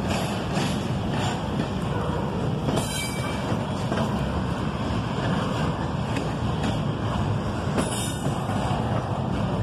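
Double-stack intermodal freight cars rolling past at speed: a steady rumble of steel wheels on the rails, with brief high squeals of the wheels about three seconds in and again near the end.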